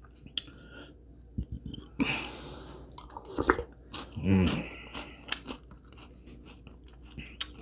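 Close-miked chewing: a person eating, with many small wet mouth clicks throughout, a breathy noise about two seconds in and a brief low hum about four seconds in.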